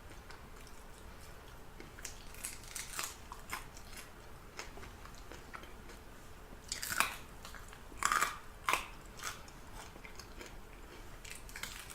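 Close-up chewing and biting into crispy fried chicken, with scattered crackles and a few louder crunches about seven to nine seconds in.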